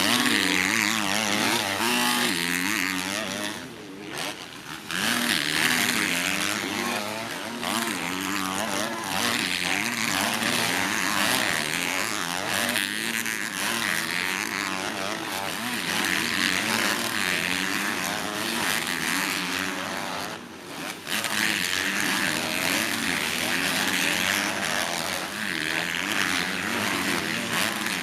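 Motocross race bikes running on the track, engines revving up and down with constantly shifting pitch. The sound dips briefly about four seconds in and again about twenty seconds in.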